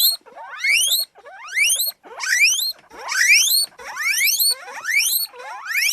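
Guinea pigs wheeking: a string of high squeals, each rising steadily in pitch, about one a second.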